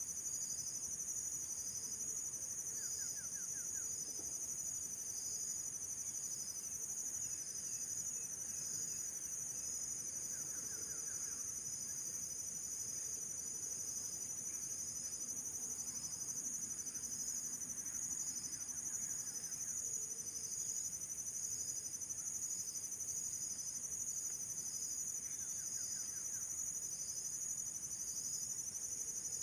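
Steady, high-pitched chorus of insects such as crickets or cicadas, with a regular pulsing trill under it and a few short, faint bird trills.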